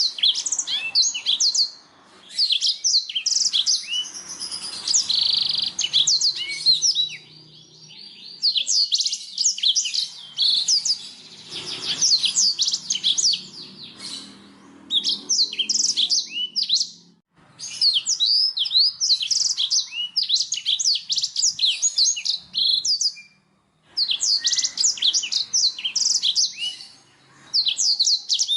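Black-throated canary (blackthroat) singing: long bouts of high, rapid twittering notes with quick pitch sweeps, broken by short pauses every few seconds.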